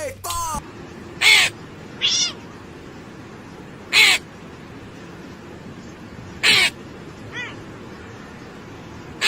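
A series of short, loud, harsh animal calls, five of them spaced irregularly about one to two and a half seconds apart, the last one faint.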